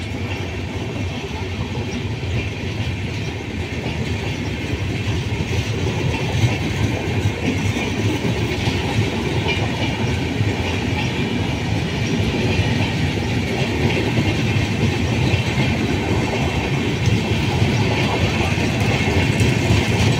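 Express train's LHB passenger coaches running through a station at speed without stopping: a steady rumble and clatter of wheels on the rails, growing a little louder towards the end.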